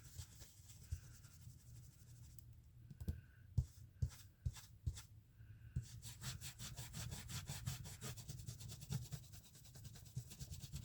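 Ink blending tool rubbing ink through a stencil onto paper: a few scattered taps and scrapes, then quick, regular scrubbing strokes from about six seconds in.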